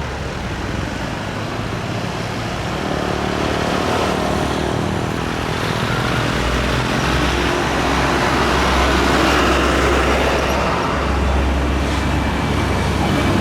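Jet airliner's engines at take-off power: a steady rumble with a whine, slowly growing louder.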